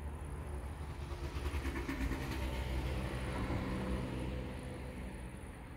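Regional express train passing: a steady rolling rumble with a low hum that builds to a peak around the middle and then fades away.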